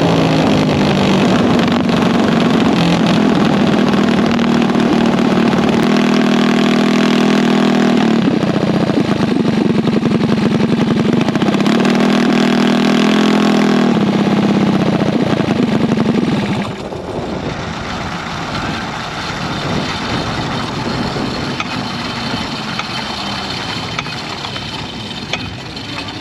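Racing vehicle engine held loud at high, steady revs for about sixteen seconds, with a couple of short dips. It then drops away suddenly to a fainter engine sound that slowly falls in pitch.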